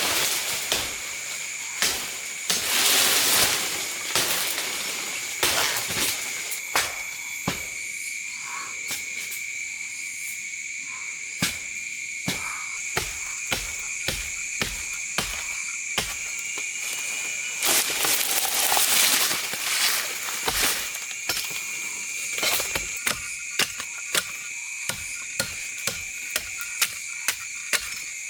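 Steady high-pitched chorus of calling forest animals, held on two constant pitches. Over it come many sharp, irregular knocks and taps, with bursts of rustling about three seconds in and again around eighteen seconds in.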